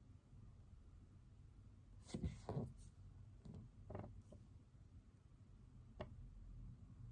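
Quiet room tone broken by a brief burst of handling noise about two seconds in, then single light clicks about four and six seconds in, as from objects moved on a study desk.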